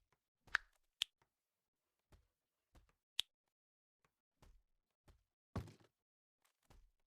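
A series of light knocks and sharp clicks at irregular intervals, about nine in all, with a duller thud about five and a half seconds in.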